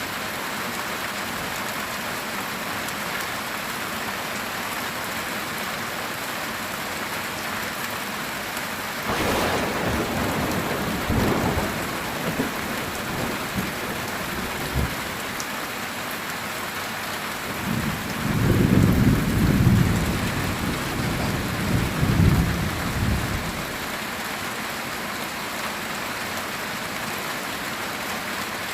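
Heavy rain drumming steadily on a metal tin roof. About a third of the way in a sharp crack of thunder rumbles briefly, and about two-thirds of the way in a louder low roll of thunder rumbles for several seconds.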